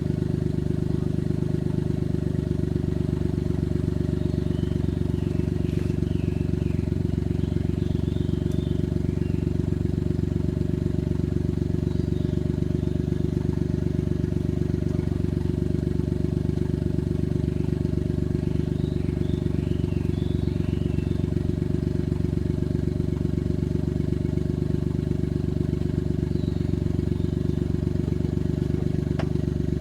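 Suzuki Jimny JA11 off-road competition vehicle's engine idling, a steady low drone that holds one pitch with no revving.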